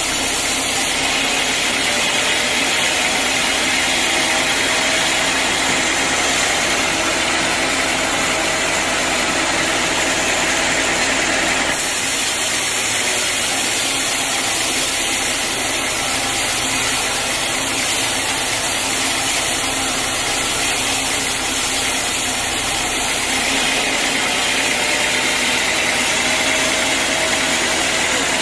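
Sawmill machinery running steadily with a continuous, loud mechanical noise, its tone shifting slightly twice.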